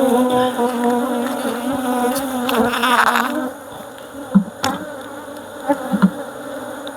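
A swarm of honeybees buzzing close around the microphone as the hive is opened and disturbed: a loud, steady hum for about three and a half seconds, then fainter, with a few light knocks near the middle.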